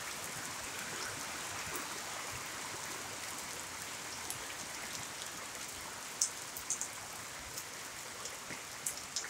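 Steady moderate rain falling, an even hiss, with sharp drips striking close by now and then, a few louder ones about six and nine seconds in.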